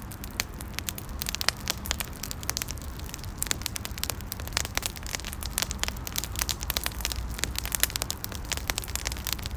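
Campfire burning: wood crackling and popping in dense, irregular clicks over a steady low rumble of the flames.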